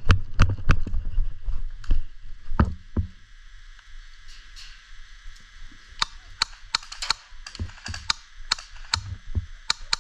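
Sharp clicks and snaps at irregular intervals: a few in the first three seconds, then quieter, then quick clusters in the second half.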